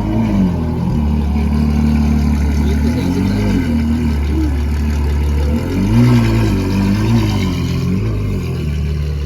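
Car engine running, with the revs rising and falling several times.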